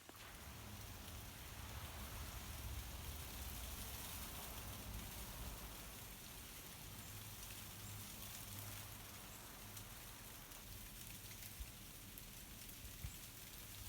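Ice-coated tree branches crackling and ice fragments pattering down as the trees sway in a breeze, a steady rain-like hiss of countless small cracks and ticks, with a low rumble underneath.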